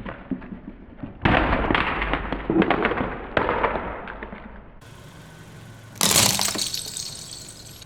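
Brittle objects cracking and shattering under a car tyre, in two separate crushes. The first, about a second in, is a burst of many sharp crackles that fades over a few seconds. The second, about six seconds in, is a brighter, sharper crash.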